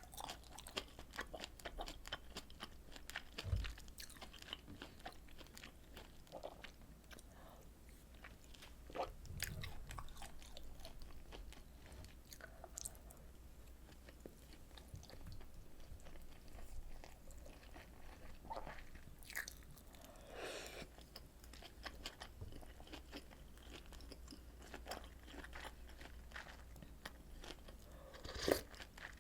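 Close-miked eating of rolled omelet and pork kimchi stew: wet chewing and biting with crisp crunching clicks throughout, and a few louder short knocks.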